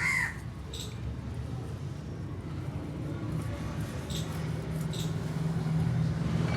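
A crow cawing once at the start, with a few short, sharp high calls later, over a steady low hum.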